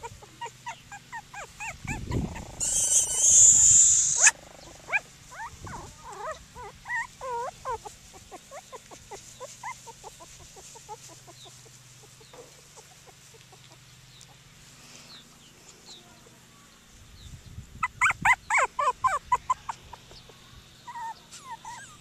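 Cockapoo puppies whimpering and yipping in many short, high calls, with a louder flurry of yips near the end. About three seconds in there is a brief loud rustling burst.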